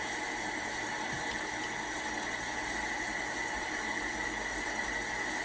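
Sound decoder in an Accurascale OO-gauge Class 55 Deltic model playing the idle of its Napier Deltic engines through the model's small speaker: a steady engine drone with a thin, constant whistle-like tone.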